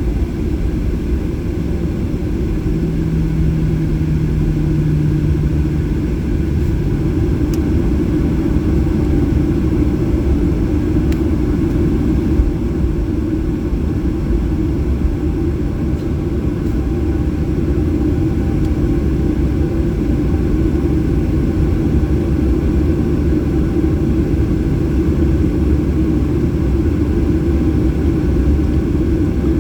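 Steady, loud rumble of a Boeing 737-800's CFM56 jet engines and airflow, heard from inside the passenger cabin, with a brief low hum joining in about three seconds in.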